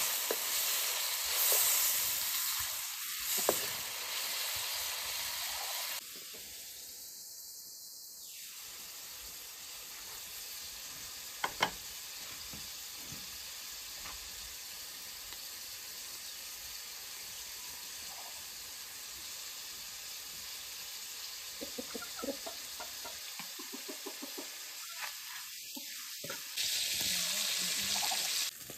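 Food frying in a hot pan, a steady sizzle. It is louder for the first few seconds, drops suddenly to a softer sizzle, and rises again near the end, with a couple of sharp clicks about a third of the way in.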